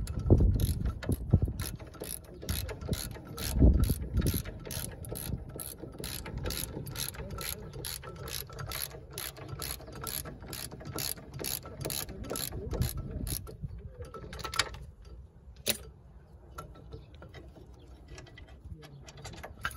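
Socket wrench ratchet clicking steadily, about three clicks a second, as a 15 mm brake caliper carrier bolt is wound out. There are a few heavier knocks in the first seconds, and after about 14 seconds the clicking breaks up into a few separate clicks.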